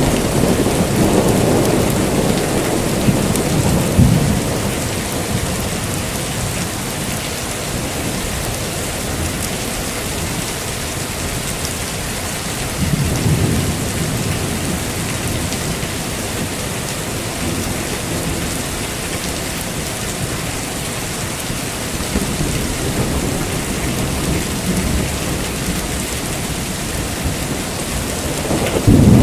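Heavy rain falling steadily, with rolling thunder rumbling low in the opening seconds, twice more through the middle and again near the end.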